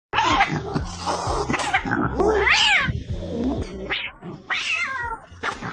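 An angry, fierce cat yowling and hissing, with drawn-out wavering yowls about halfway through and again near the end.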